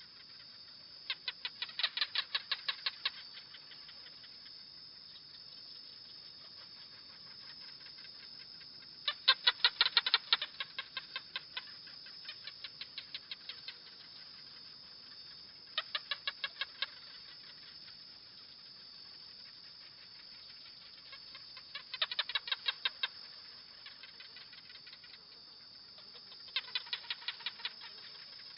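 Gecko calling in bouts of rapid clicking chirps, about eight a second, each bout lasting a second or two and coming five times, a few seconds apart.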